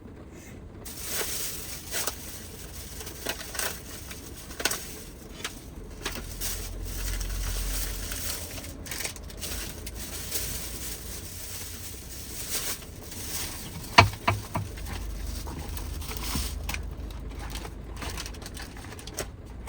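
Rain pattering steadily on the roof of a Toyota HiAce van, with scattered clicks and crinkles of things being handled inside. A sharp knock about fourteen seconds in is the loudest sound, and a low rumble swells twice.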